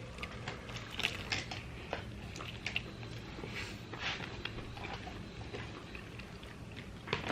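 Close-up eating sounds: a person chewing and biting into fried chicken, with scattered soft crunches and mouth clicks.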